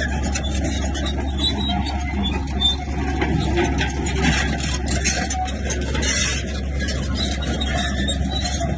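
Bulldozer's diesel engine running under load with a steady low rumble, over irregular grinding and scraping from the tracks and blade working stone and dirt.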